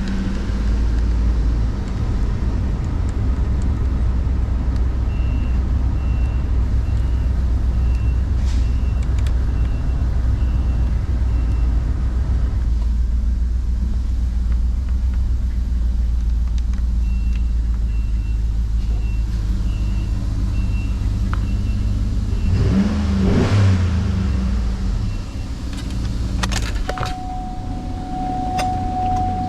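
2014 GMC Yukon's 6.2-litre V8 idling steadily, with a brief rise and fall in engine speed a little past the middle. A high warning chime beeps about once a second through two long stretches, and a steady tone begins near the end.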